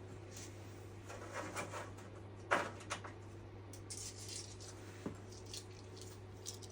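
Small metal parts and hand tools being handled: light scraping and clinks, with one sharper metallic clink about two and a half seconds in, over a steady low hum.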